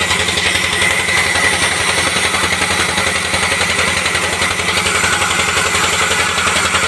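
Sawmill machinery running steadily: an engine-like drone with a rapid, even pulse and a steady high whine over it.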